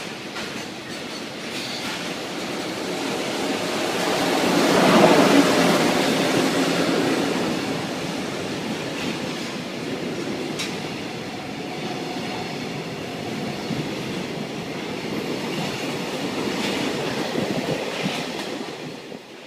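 Freight train rolling past: a continuous rumble and rattle of wagons with wheel clatter over the rail joints and some faint wheel squeal, loudest about five seconds in and fading right at the end.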